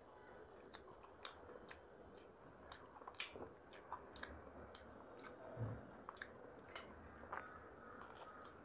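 Faint close-mic chewing of a crumb-fried veg cutlet: many small wet mouth clicks and soft crunches, with a low thud a little past halfway and a fresh bite near the end.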